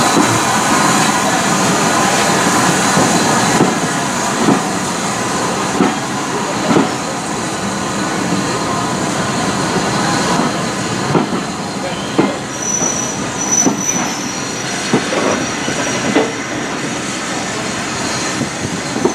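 Heritage train running along the line: a steady rolling rumble with sharp knocks about once a second. A thin high wheel squeal joins about two-thirds of the way through.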